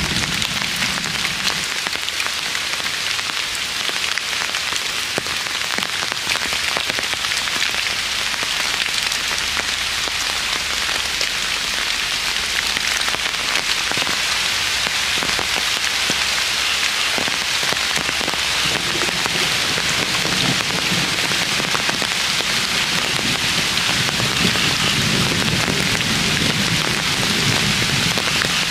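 Steady drizzling rain, an even hiss scattered with the ticks of individual drops.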